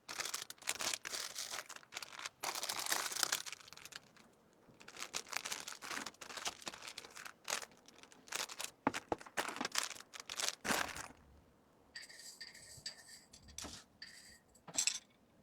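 Plastic packaging crinkling and rustling in irregular bursts as items are handled and packed, with brief pauses between handlings.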